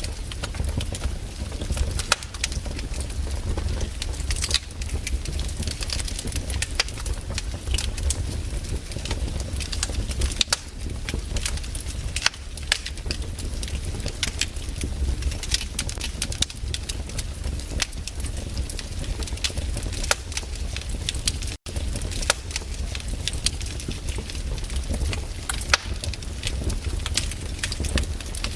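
Wood campfire crackling, with frequent sharp pops and snaps over a steady low rumble. The sound cuts out for an instant about two-thirds of the way through.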